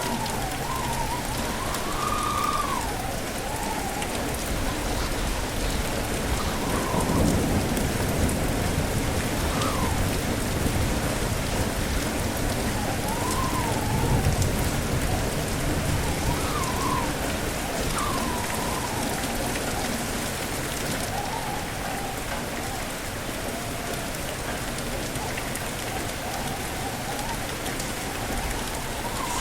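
Steady heavy rain with strong wind howling in wavering, rising and falling tones, and low thunder rumbling twice, about 7 and 14 seconds in.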